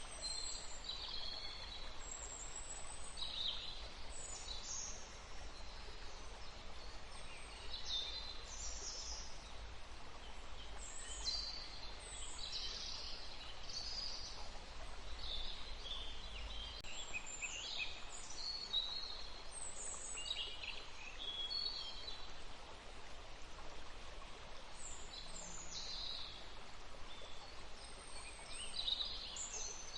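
Several forest birds singing, with many short chirps and trills throughout, over a faint steady rush of a stream.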